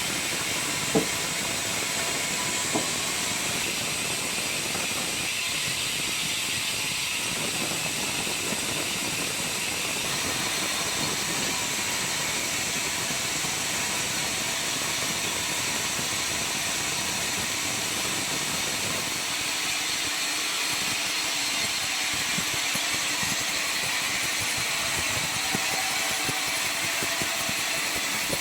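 Circular sawmill machinery running steadily, a continuous hissing noise, with two sharp knocks about one and three seconds in.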